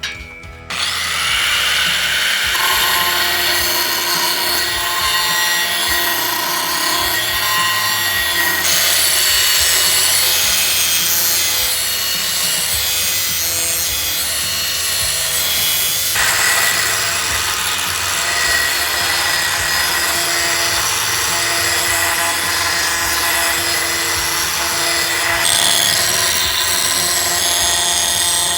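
Electric power tool grinding steel: a continuous loud rasping hiss with a steady whine. The sound changes abruptly about 9 seconds in, again about 16 seconds in, and near the end.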